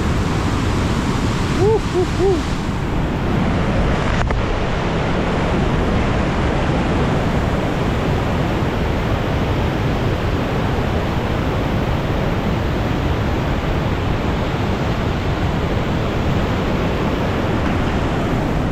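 Chilnualna Falls' cascade pouring close by: a loud, steady rush of falling water.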